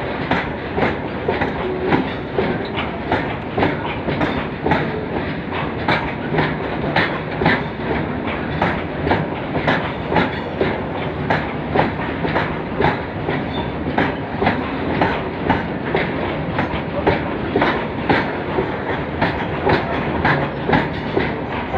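Train wagons rolling past, their wheels clacking steadily over the rail joints several times a second over a continuous rumble.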